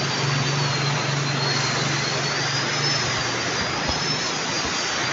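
Heavy rain falling in a downpour, a loud, steady rushing noise. A low steady hum sounds under it and stops about four seconds in.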